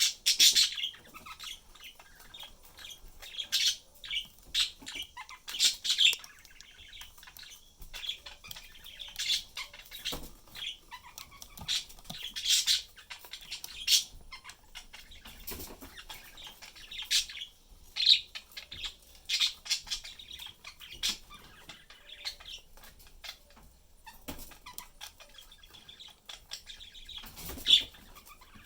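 Pet budgerigars chirping and squawking in short, irregular calls, several birds at once, mixed with scattered sharp clicks.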